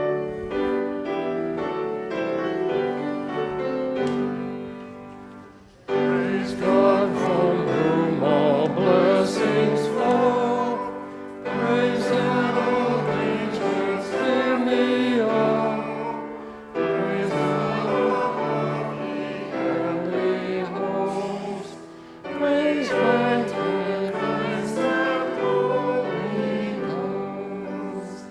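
Choir singing with piano accompaniment, a sung church anthem in phrases of about five seconds, the voices wavering with vibrato.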